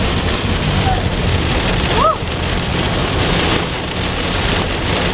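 Heavy rain drumming steadily on a moving car, heard from inside the cabin, with the low rumble of the car underneath.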